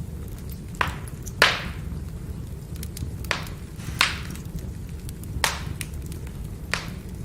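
Wood fire burning: small crackles over a steady low rumble, with about six sharp pops from the burning firewood, the loudest about one and a half seconds in.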